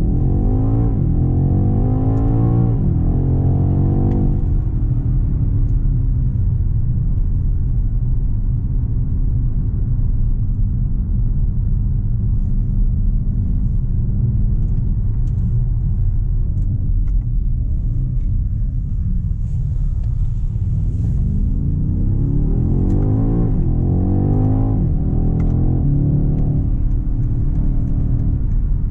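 BMW X6 M Competition's 4.4-litre twin-turbo V8 heard from inside the cabin under hard acceleration, its pitch climbing and dropping back twice as the gearbox upshifts. It then cruises with a steady drone and road rumble. About 22 seconds in it pulls hard again through two more upshifts.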